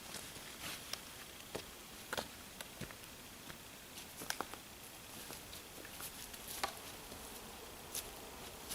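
Scattered light taps and clicks, irregularly spaced, over a faint steady background.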